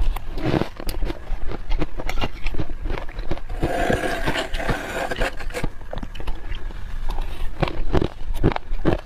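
Freezer frost crunching and squeaking under a spoon as it is dug out, in quick irregular crunches. A squeakier stretch comes about four seconds in.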